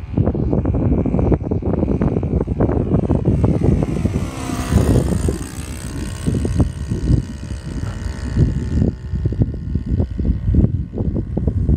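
Cessna 182's piston engine and propeller droning under heavy wind buffeting on the microphone. From about four seconds in, a sweeping propeller tone swells through the noise and fades out near nine seconds.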